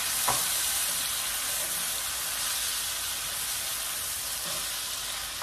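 Shrimp sizzling in melted butter with garlic and green onions in a cast-iron skillet, a steady frying hiss, with a couple of light taps near the start as a wooden spatula stirs them.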